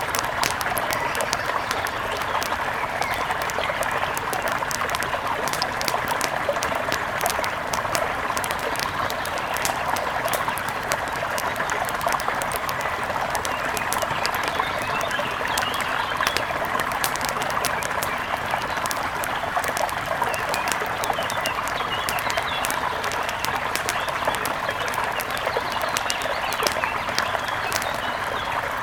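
Mountain river rushing steadily, with bird chirps now and then.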